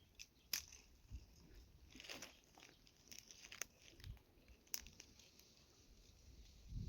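Near silence broken by a few faint, scattered crunches and clicks.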